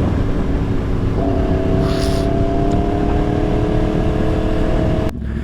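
Yamaha R1 inline-four with a full aftermarket exhaust running at a steady cruise, with a constant engine note over heavy wind and road noise. The note is missing for about the first second and then comes back. Just before the end the sound changes abruptly.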